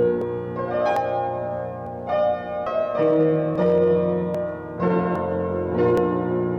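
Piano playing slow music, a new chord or note group struck about once a second and left to ring.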